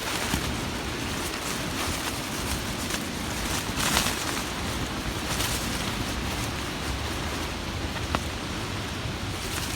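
Steady rain falling, heard as an even rushing hiss, with wind rumbling on the microphone underneath. A few brief brighter swells, the strongest about four seconds in.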